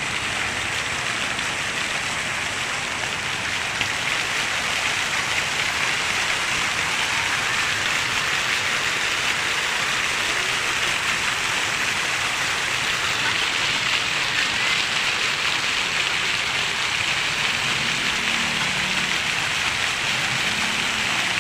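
Fountain water jets spraying and splashing down into the basin: a steady, rain-like hiss.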